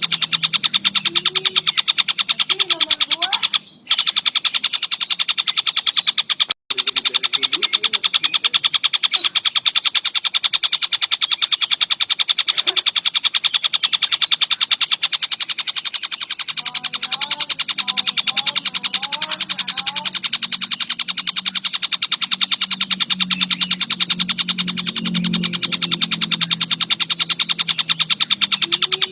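Tengkek buto kingfisher calling in a rapid, continuous chattering trill, unbroken apart from two very brief cuts about four and seven seconds in. Fainter, lower chirps sit beneath it.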